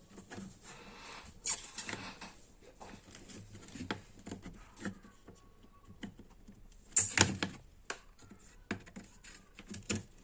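Small tool clicks and scrapes of desoldering work on a circuit board as the solder is cleared from a volume potentiometer's legs. The clicks are irregular, with the loudest about one and a half and seven seconds in.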